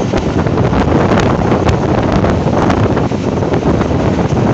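Wind buffeting the microphone over the steady rumble of a passenger train running at speed, heard from an open door of the moving coach, with irregular clicks from the wheels and track.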